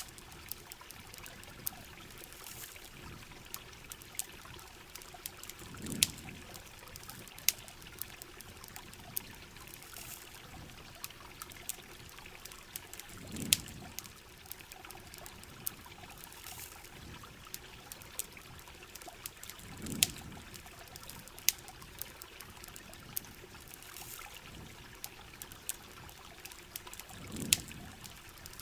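Heavy rain and trickling water hissing steadily, with many scattered sharp pops or crackles and a brief low whoosh about every seven seconds.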